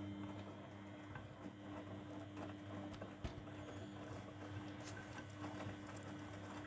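Grundig washing machine running early in its Mini 50° wash cycle: a steady low hum with scattered soft clicks and knocks.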